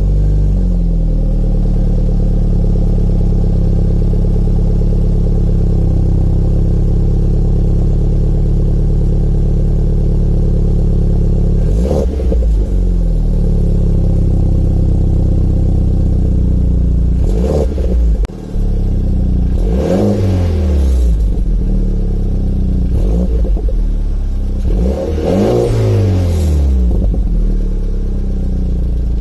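BMW Z4 E89's turbocharged engine idling steadily, then blipped a few times in the second half, each rev falling back to idle. After the turbo whistle on each blip comes a sliding metallic sound, the noise the owner is trying to trace.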